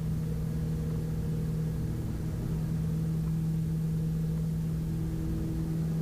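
Steady cabin drone of a twin piston-engine Piper Navajo Panther's engines and propellers at climb power, an even low hum with one strong steady tone.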